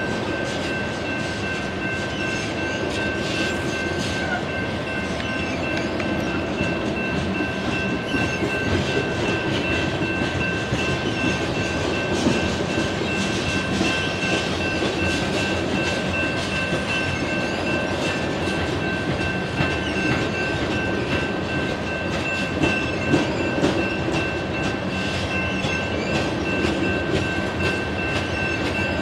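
Coal train's hopper cars rolling past: a steady rumble with clickety-clack from the wheels and occasional small clanks, over a steady high-pitched tone.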